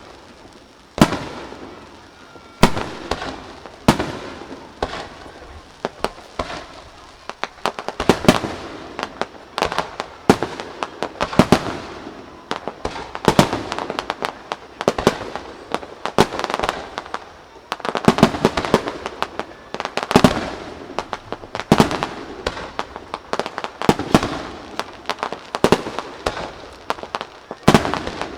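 Aerial fireworks shells bursting, with deep booms and echoing reports, sparse at first and then in quick, dense succession with crackling from about eight seconds in.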